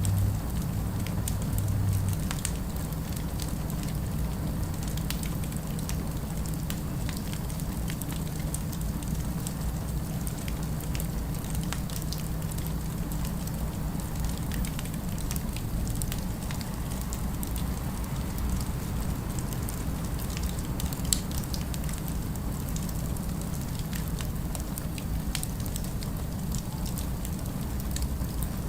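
Fireplace crackling: scattered small pops and snaps over a steady low rumble with a faint hum, part of a mixed ambient fire soundscape with distant city noise.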